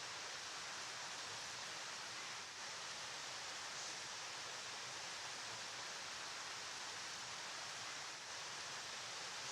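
Flowing river rushing steadily, an even hiss of water with most of its energy in the higher range and no separate splashes.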